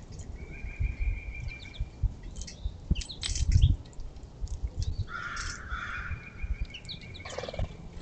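Wild birds calling and chirping at a seed feeder: short chirps and held high notes, with a louder, lower call about five seconds in. Low thumps and knocks sound all through.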